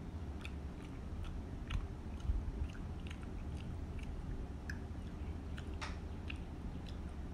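Close-miked chewing of a mouthful of curry instant noodles: small wet mouth clicks and smacks, a few a second and irregular, over a steady low hum.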